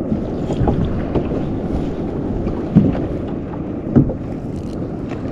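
Wind buffeting the microphone and water lapping against a fishing kayak's hull, with two light knocks about three and four seconds in.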